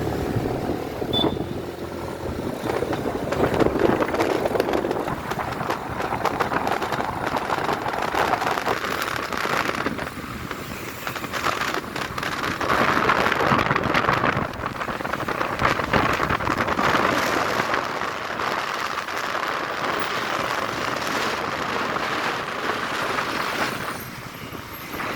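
Motorbike being ridden along a road: engine and road noise, swelling and easing every few seconds.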